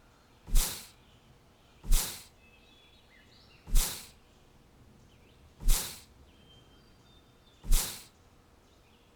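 Five short, sharp bursts of noise at slightly uneven intervals of about one and a half to two seconds, each dying away quickly. Faint bird chirps sound in between.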